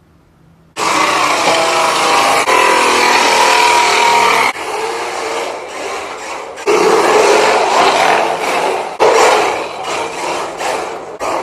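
RC drift car's electric motor whining under throttle while its tyres slide across the floor. It starts suddenly about a second in and runs loud for a few seconds, drops back, then surges again in short bursts twice more.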